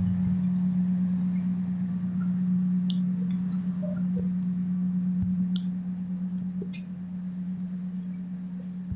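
Steady low mechanical hum of a passenger train, with a few faint clicks and ticks. It fades somewhat over the last few seconds and drops away at the close.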